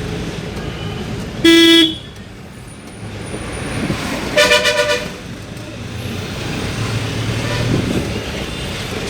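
Vehicle horn blasts over steady road and engine noise: one loud blast about a second and a half in, then a higher-pitched horn giving a few quick toots about four and a half seconds in.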